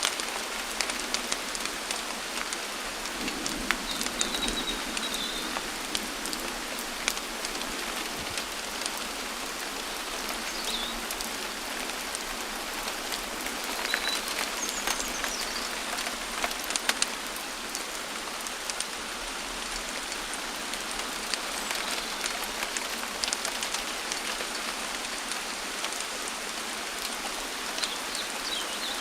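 Steady rain falling, with many sharp ticks of single drops landing close by. A few faint, short high chirps from a bird come through the rain now and then.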